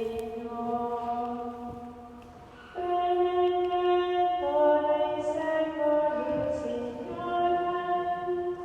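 Slow chant-like singing: a melody of long held notes that moves in steps, at times in two parts, with a brief softer gap about two seconds in.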